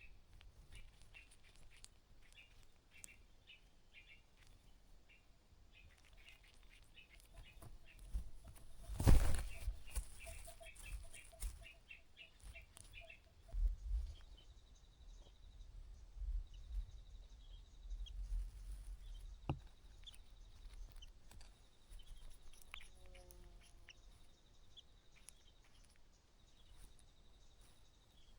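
Quick, high, thin chirps from streaked spiderhunter nestlings over the first dozen seconds, with a loud brief rustle about nine seconds in and low knocks after it. A faint high pulsing buzz runs through the second half.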